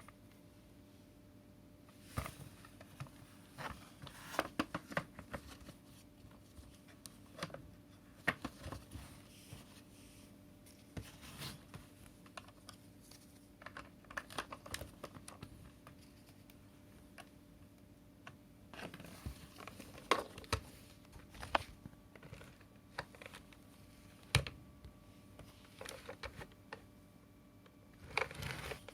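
Plastic parts of a cordless cyclone vacuum cleaner being handled: irregular clicks, taps and light rustles, some in quick clusters, with the motor off.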